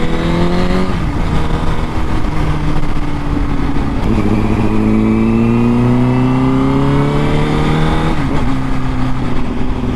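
Honda Fireblade's inline-four engine pulling through the gears: the revs climb and fall at an upshift about a second in, hold steady for a few seconds, then climb again and fall at a second upshift near the end.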